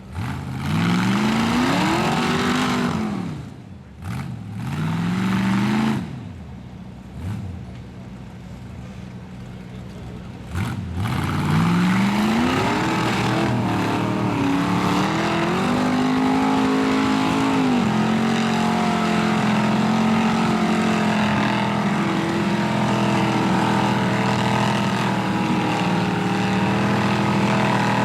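Ford engine in an off-road rock buggy revving hard in several rising and falling bursts, with a short blip in between, then held at high revs for the second half.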